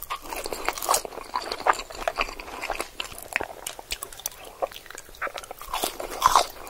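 A person chewing and biting mouthfuls of french fries close to the microphones, with many small crackling clicks of mouth and chewing sounds.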